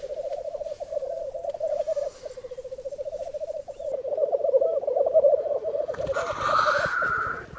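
Male black grouse at a lek, rookooing: a steady, rapidly pulsing bubbling chorus. A louder, noisier hissing call joins about six seconds in.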